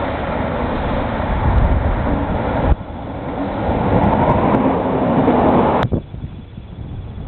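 Belgian SNCB train running past on the line: a loud, steady rumble and rail noise. The sound breaks off abruptly twice, about three seconds in and again near six seconds, quieter after the second break.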